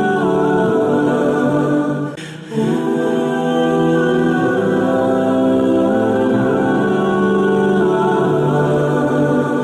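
Background music: slow, choir-like vocal chords held long and changing slowly, with a brief break about two seconds in.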